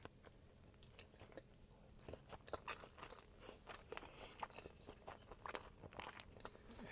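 Close-miked chewing of a salmon sushi piece: soft, wet mouth clicks and smacks, sparse at first and steady from about two seconds in.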